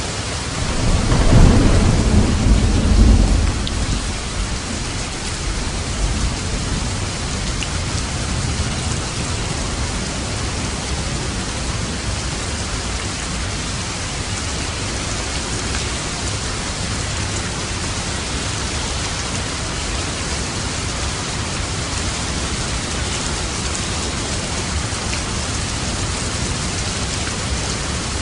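Steady rain falling, with a low rumble of thunder starting about a second in and fading over the next few seconds.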